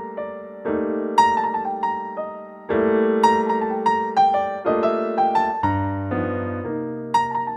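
Background piano music: slow held chords with a simple melody of short notes played over them.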